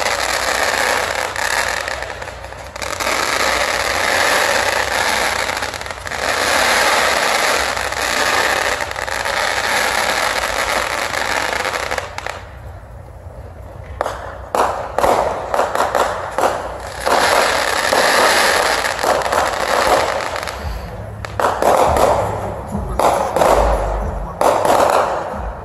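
Aerial fireworks: dense, continuous crackling from the bursting shells for about the first twelve seconds. After a short lull comes a rapid run of sharp bangs and pops mixed with more crackle.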